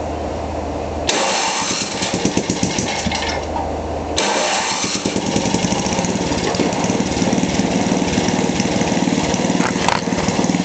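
A 5 hp Tecumseh single-cylinder four-stroke small engine, electric-started. It fires about a second in and runs roughly, falls back briefly, then catches again about four seconds in and settles into steady running.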